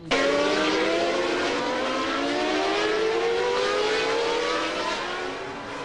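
Formula 1 car engine at high revs, its pitch climbing steadily as the car accelerates. It cuts in suddenly at the start.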